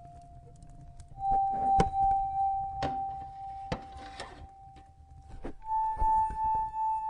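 Soft instrumental music holding long single notes that step up in pitch twice, over a wood fire crackling, with a handful of sharp pops from the fire, the loudest about two seconds in and near six seconds.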